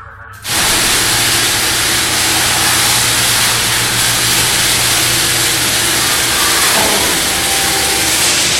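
Electric garage door opener starting suddenly about half a second in and running steadily: a low motor hum under loud, even noise of the door moving.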